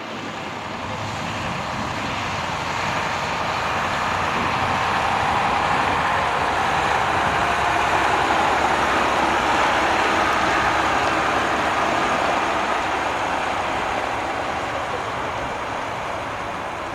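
Jet airliner's engines passing, a steady rushing noise that swells to its loudest about halfway through and then slowly fades.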